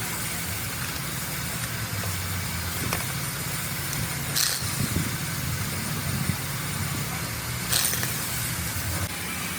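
A motor runs with a steady low hum, and short bursts of hissing air or spray come about four and a half and eight seconds in.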